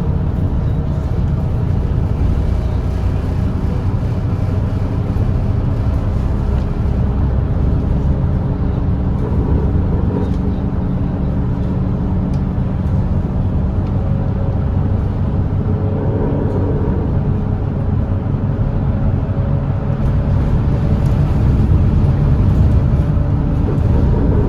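Volvo B8RLE double-decker diesel bus's straight-six engine running steadily while cruising on the expressway: a low drone with road noise, swelling slightly a few seconds before the end.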